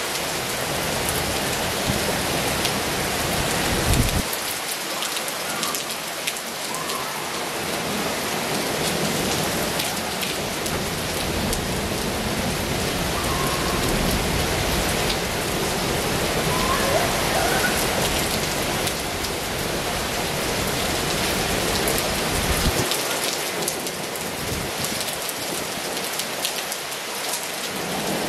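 Heavy rain falling steadily, with close drops ticking on a nearby surface. A low rumble underneath drops away about four seconds in and again near the end.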